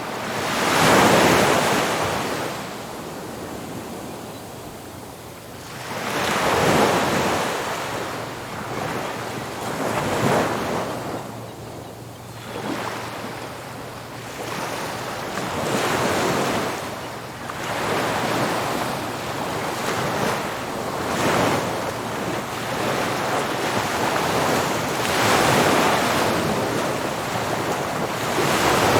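Ocean waves breaking on a beach, one surge after another every few seconds, each swelling into a loud wash of surf and fading back, with wind noise on the microphone.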